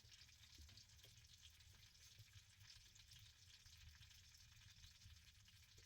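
Near silence: a faint steady hiss with light crackling over a low rumble.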